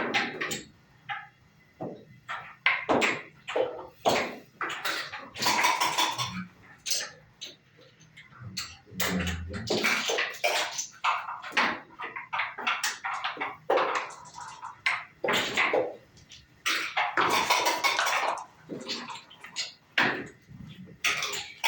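Backgammon dice and checkers clacking and rattling on the board in a quick, irregular run of sharp knocks as moves are played.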